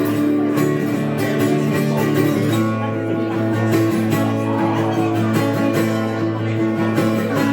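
Instrumental break in a live song: guitar chords played with no singing.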